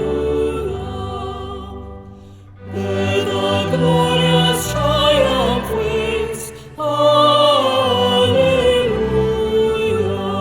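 A hymn sung in a classical style with vibrato over steady instrumental accompaniment, with short breaths between phrases about two and a half and seven seconds in.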